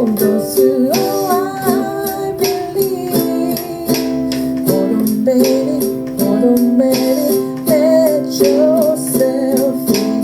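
Ukulele strummed in a steady rhythm while a woman sings a melody over it.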